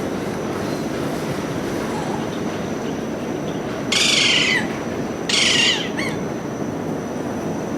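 A parrot gives two short, harsh squawks about four and five seconds in, over a steady low background noise.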